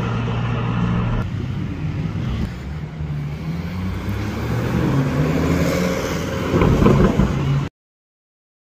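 Lamborghini Urus twin-turbo V8 engines running in city traffic: a low, steady engine note that rises in pitch as the SUVs accelerate, loudest a little before the end, then cuts off suddenly.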